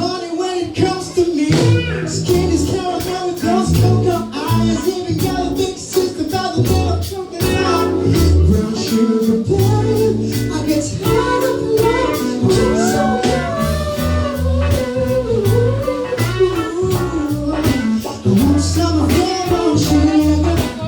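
Live band playing an instrumental passage: electric guitar over a steady drum beat and bass, with the guitar bending notes around the middle.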